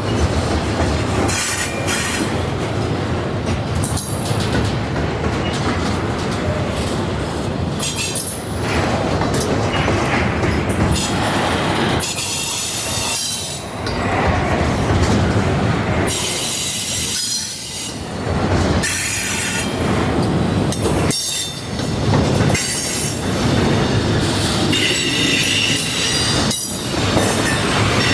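Train cars rolling past on steel rails, a continuous loud rumble with high-pitched wheel squeals that come and go and some clicking of wheels over rail joints.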